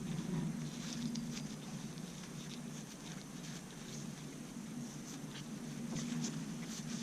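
Light scratching and rubbing with small clicks from handwork on a rusty brake caliper piston as it is cleaned, over a steady low hum.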